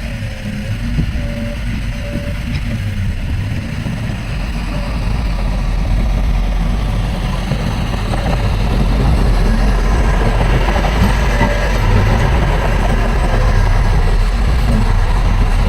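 Heavy diesel earthmoving machinery running: a steady engine rumble with mechanical clatter, growing louder about a third of the way in.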